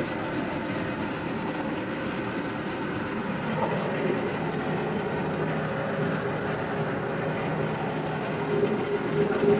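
Rooftop packaged air conditioning unit running steadily, with its compressors and fans going. Its three-phase blower motor is wired backwards and spinning in reverse, which leaves a low blower amperage and a high temperature split.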